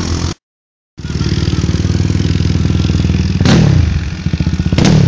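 Pit bike engine running with a steady, even pulse. The sound drops out briefly about half a second in, and two short swells come about a second apart near the end, each falling in pitch.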